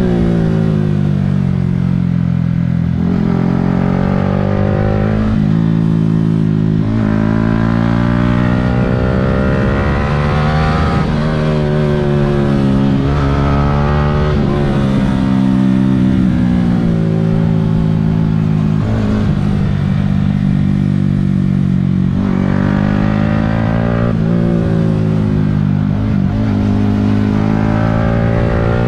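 Yamaha R15 V3's 155 cc single-cylinder engine, heard from on the bike as it is ridden hard. The engine note climbs again and again under acceleration, then drops at gear changes and when the throttle is rolled off for corners.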